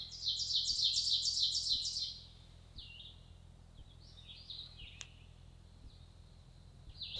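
A songbird singing a quick run of repeated high notes for about two seconds, followed by a few scattered single chirps.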